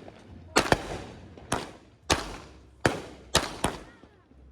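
Consumer firework cake firing a string of sharp bangs, about seven in quick succession at uneven spacing, each trailing off with an echo.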